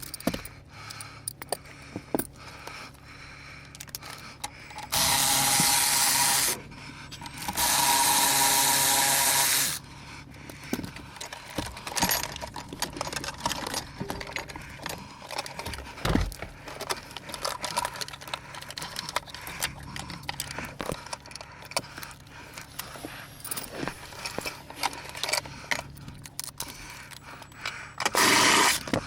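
A handheld power tool runs in two bursts of about a second and a half and two seconds, with a short third burst near the end, as is typical when battery terminal or hold-down fasteners are driven. Small clicks and knocks of tools and parts fall between the bursts.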